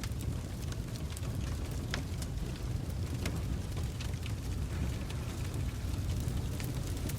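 Wood fire burning in a fireplace: logs crackling with irregular sharp pops over a steady low rumble, with the strongest pops about two and three seconds in.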